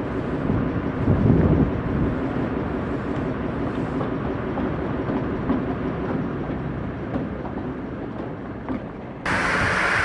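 A train rolling along the track: a low rumble with scattered clicks, loudest about a second in. Near the end it cuts suddenly to a louder, hissing sound with a steady low hum.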